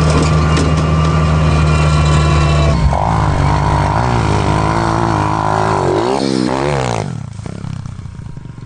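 Dirt bike engine holding a steady pitch for about three seconds, then revving up and down, the throttle blips coming faster near the end before the sound drops away about seven seconds in.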